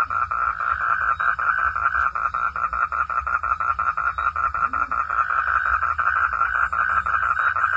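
A frog calling in a fast, even trill of about seven pulses a second, steady and unbroken.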